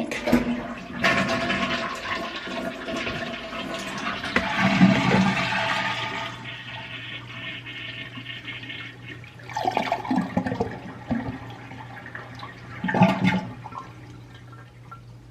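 Toilet flushing with its water supply shut off, so the tank drains without refilling. The rush of water is loudest for about the first six seconds, then dies down, with two short bursts of water sound later on.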